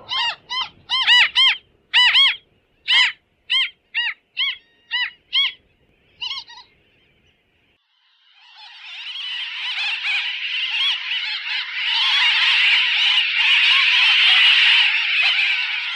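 A tern gives a run of repeated harsh calls, about two a second, that fade out after about six seconds. After a brief gap, a tern colony starts up: a dense chorus of many overlapping calls that swells and then stays loud.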